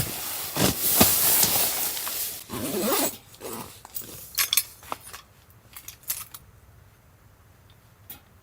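Rustling and handling noise for about three seconds, then a few scattered light clicks and clinks as small objects are handled.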